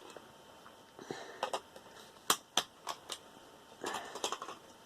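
Sharp metallic clicks and snips with a short scrape about four seconds in: hand tools cutting and prying steel and wire off a computer part.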